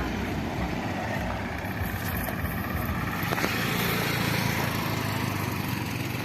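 Lorry engine running steadily while the truck is driven, with road and wind noise.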